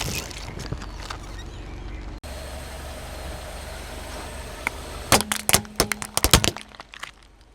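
Car tyre rolling over and crushing brittle objects, with a low steady engine and rolling noise; about five seconds in comes a quick run of sharp cracks and snaps as they break.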